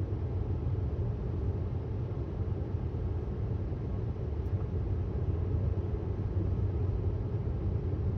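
Steady low road and tyre rumble heard inside the cabin of a moving 2018 Tesla Model S 75D, an electric car.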